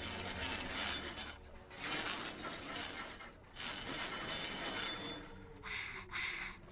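Crashing and clattering sound effects from an animated film soundtrack in four bursts, with breaking and metallic ringing.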